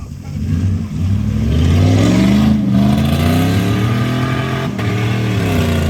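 Stock mud truck's engine revving hard and accelerating, getting louder and higher over the first two seconds, then staying at high revs with two brief dips, about two and a half and about four and three-quarter seconds in.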